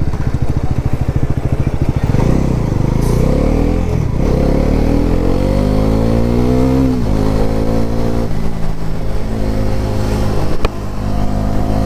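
Bajaj Pulsar NS400Z's 373 cc single-cylinder, liquid-cooled engine on the move. Its pitch rises steadily for several seconds under acceleration, drops suddenly at a gear change about seven seconds in, then runs steadier. A sharp click comes near the end, where the level dips.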